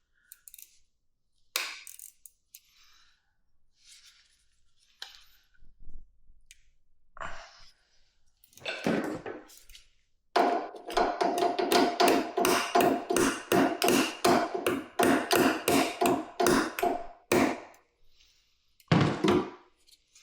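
Scattered knocks and clicks of tools on metal parts, then several seconds of rapid, even metallic strokes about three a second with a ringing tone beneath them. A last louder stroke comes near the end. It is hand-tool work on the motorcycle's stuck parts.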